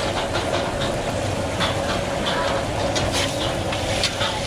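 Oyster omelettes frying in oil on a flat round iron griddle: a steady sizzle with scattered crackles and pops, over a steady low rumble.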